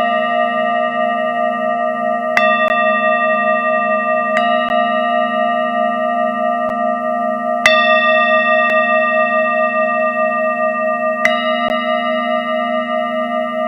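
Several singing bowls ringing together at different pitches in a steady, wavering hum, each struck again now and then: four fresh strikes, a few seconds apart, the loudest about halfway through.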